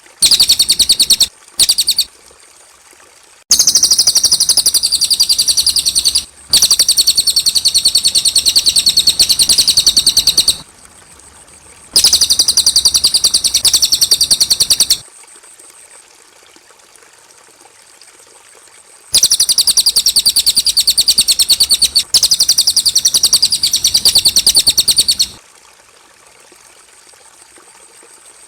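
Cililin bird singing: fast, high-pitched trills repeated in bursts of a few seconds, with short pauses between them.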